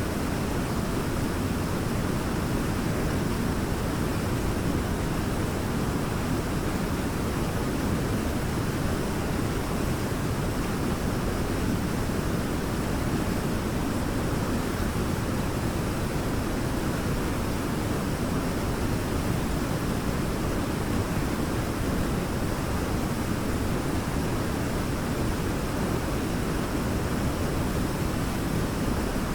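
Waterfall pouring steadily: an even, unbroken rush of falling water, heaviest in the low range.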